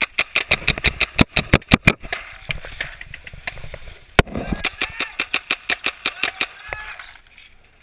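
Paintball markers firing in rapid strings of sharp pops, about seven shots a second: one string for about two seconds, then after a short pause a single loud shot about four seconds in and another string running on for about three seconds.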